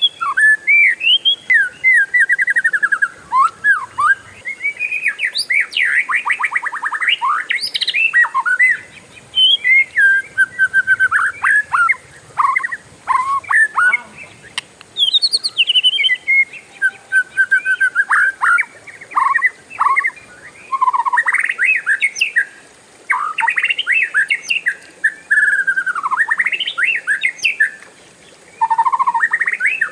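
Oriental magpie-robin (kacer) singing a long, varied song: whistled notes and slurred phrases strung together with fast rolling trills, broken by a few brief pauses.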